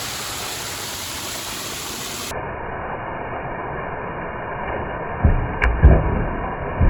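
Waterfall rushing with a steady hiss of falling water. About two seconds in, the sound cuts abruptly to a duller, muffled rush of water, and several heavy low thumps come near the end.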